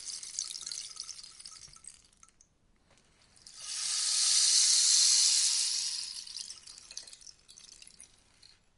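Rainstick tipped over twice: a crackly patter of falling beads dies away, and after a short pause a second pass swells into a smooth rush, loudest about halfway through, then thins out to a few last scattered ticks.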